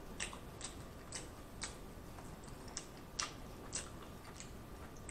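Faint, wet mouth clicks and smacks of a man chewing a mouthful of Big Mac with his lips closed, coming as a string of short, irregular ticks.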